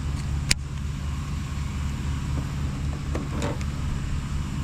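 Steady low hum of the jon boat's electric trolling motor running in the water, with one sharp click about half a second in.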